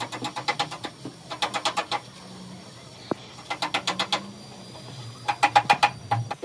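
Rapid metallic striking in short bursts of about a second, some twelve strikes a second with a ringing tone, repeated four times: a tool hammering on car body metal.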